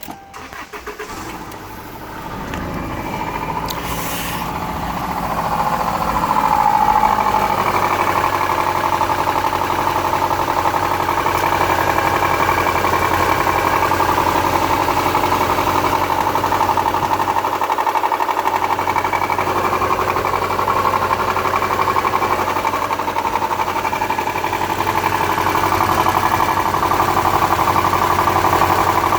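2002 Subaru Legacy boxer engine running with a steady, rhythmic knock. It gets louder over the first several seconds, then holds steady. The owner is unsure whether the knock is rod knock or piston slap.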